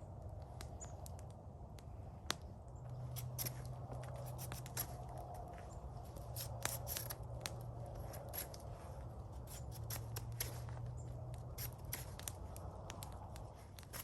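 Irregular sharp clicks and snips, the sound of something being cut by hand, scattered over a steady low hum.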